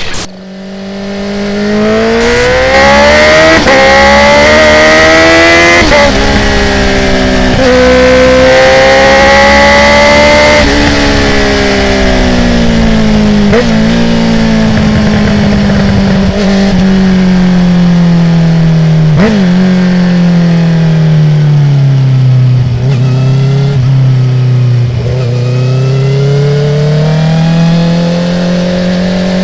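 A 2019 Honda CB650R's inline-four, through a full Akrapovic titanium exhaust with the dB killer removed, revving hard through the gears with quick quickshifter upshifts about six and ten seconds in. The engine note then falls for about ten seconds as the bike slows, with a few sharp exhaust pops, and it climbs again near the end.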